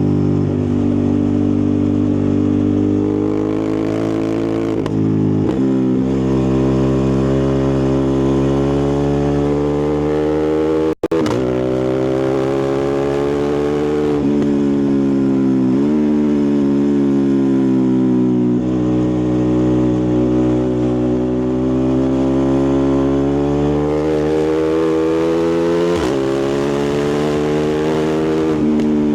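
Ducati Multistrada 1260's 1262 cc L-twin engine and exhaust under way, its pitch climbing and falling again and again, with sudden drops between pulls as it changes gear. The sound cuts out for an instant about eleven seconds in.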